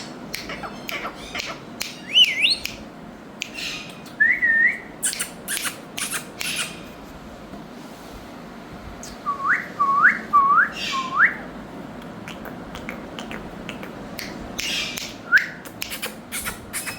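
Indian ringneck parakeets whistling and squawking: short pitched whistles, including a run of four quick rising whistles about ten seconds in, scattered among sharp harsh calls.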